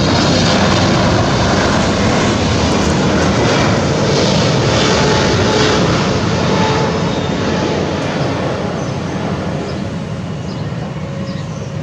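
Boeing 777-300ER's GE90 jet engines heard during landing, a loud steady rush of engine noise that eases off after about seven seconds.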